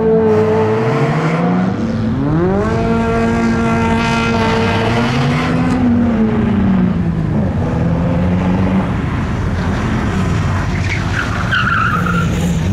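BMW E46 Compact's engine revved hard and held high, dipping and climbing again about two seconds in, then dropping about six seconds in to lower revs that rise and fall, with tyres skidding as the car slides.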